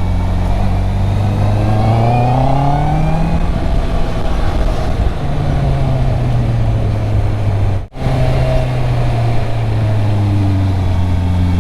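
Stock 2021 Honda CB650R's inline-four engine under way. The revs climb over the first few seconds, then fall back, and hold steady after a brief dropout about eight seconds in, rising again near the end.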